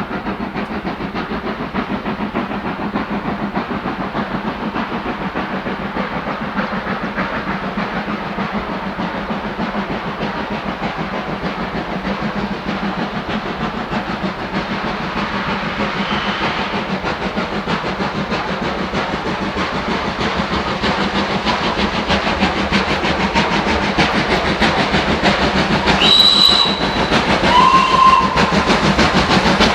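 Steam locomotive working a train, its exhaust a fast, steady chatter that grows louder as it comes closer. The whistle sounds in two short blasts near the end.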